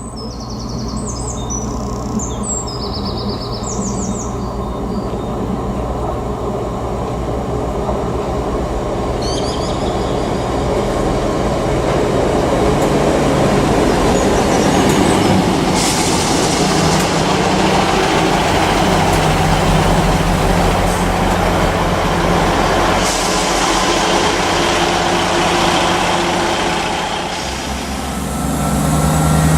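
A train approaching and passing, its noise building over about ten seconds to a loud, steady rush with a low engine hum underneath, then easing near the end. Birds chirp in the first few seconds.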